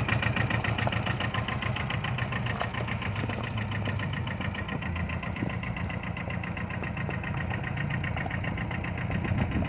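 John Deere 650 compact tractor's three-cylinder diesel engine running steadily at low revs.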